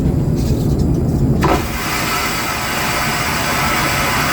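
Airliner vacuum toilet flushing: a sudden loud rushing whoosh of suction starts about a second and a half in, over the low rumble of the cabin in flight.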